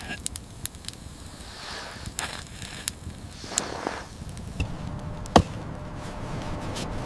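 Wood fire crackling, with irregular sharp pops, the loudest about five seconds in. A low rushing of wind rises near the end.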